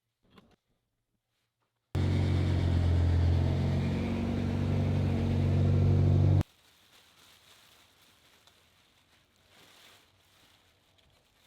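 Mitsubishi Evo X's turbocharged four-cylinder engine running steadily through its aftermarket exhaust for about four and a half seconds. It starts suddenly about two seconds in, gets slightly louder near the end, and stops abruptly.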